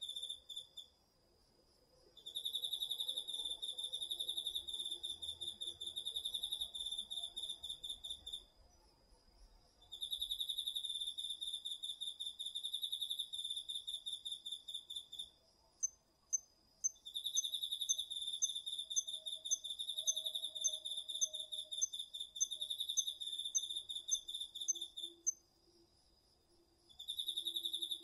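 Chorus of autumn insects, crickets among them. One insect trills loudly in long pulsed bouts of about six seconds with short pauses, over another's steady high continuous note, and a run of short, higher chirps about two a second joins in the middle.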